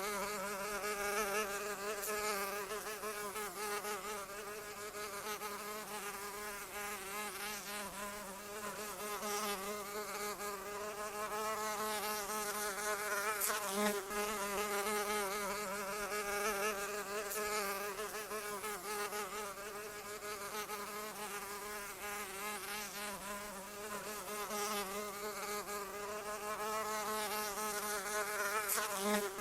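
A flying insect buzzing continuously close by, its pitch wavering up and down as it flies.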